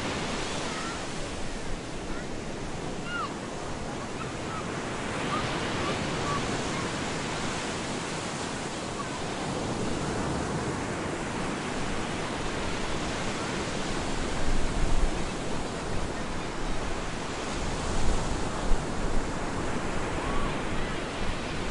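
Stormy ocean surf breaking on a beach: a continuous wash of waves that swells and recedes, with heavier low rumbles in the second half.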